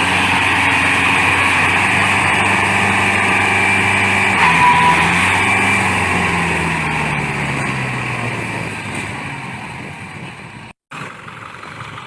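Tractor engine running hard at steady revs, then the revs sink and the sound fades over several seconds; after a brief break near the end the engine is heard more quietly.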